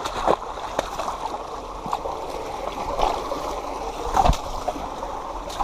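Creek water running steadily, with a few splashes from someone wading knee-deep through it, the sharpest about four seconds in.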